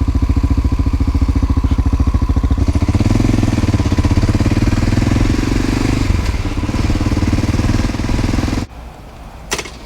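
1988 Honda NX650 Dominator's single-cylinder engine running with an even, steady beat, louder for a few seconds in the middle. Near the end the engine sound cuts off abruptly, and a single click follows.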